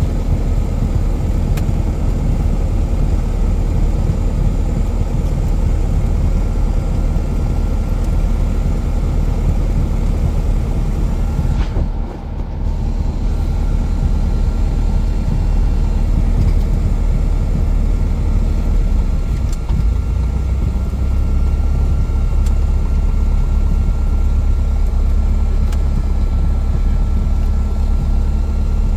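Cessna 177 Cardinal's single piston engine and propeller running steadily in flight, a loud low drone, with a brief drop in level about twelve seconds in.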